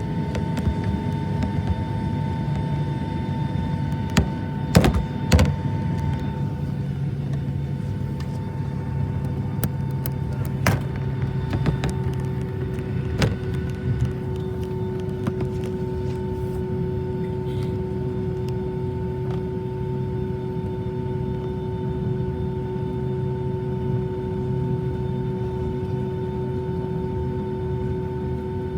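Airplane engines running with a steady hum and a constant whine, with a few sharp clicks and knocks in the first half.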